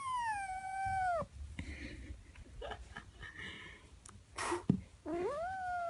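Kitten meowing: two long calls, each rising and then falling away, the first ending about a second in and the second starting near the end. A short, hissy burst comes just before the second call.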